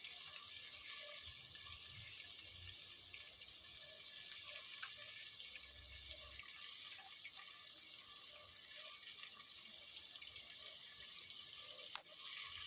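Onions frying in hot oil in a pan: a steady, even sizzle, with a couple of faint ticks. The hiss dips out briefly near the end.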